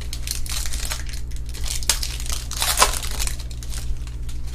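Plastic packaging crinkling and crackling as it is handled and crumpled, loudest near the middle, over a steady low hum.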